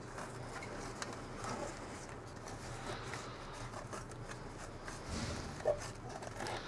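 Muffler packing material rustling and rubbing faintly as it is pushed by hand into a muffler canister, with a few small ticks and a slightly louder knock near the end.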